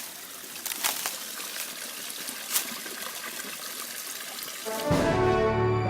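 Outdoor running water with a few sharp clicks, then music begins about five seconds in.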